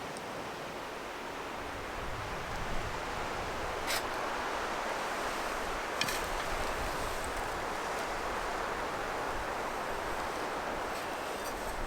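Steady hiss of rain and wind, with low gusts of wind rumbling on the microphone and two short sharp clicks, about four and six seconds in.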